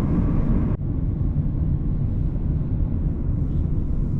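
Steady low rumble of a vehicle in motion, cut briefly about three-quarters of a second in and then carrying on the same.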